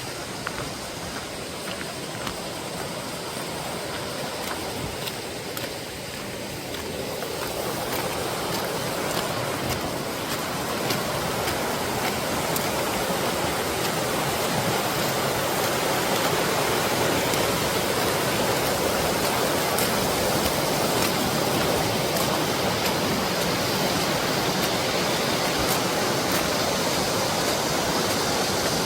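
Mountain valley stream rushing over rocks, a steady hiss of flowing water that grows louder about a quarter of the way in and then holds.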